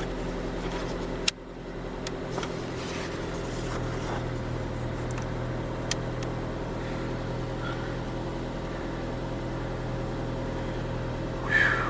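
2002 Mazda 626 engine idling steadily just after a cold start on a near-freezing morning, with one sharp knock about a second in and a brief louder sound near the end.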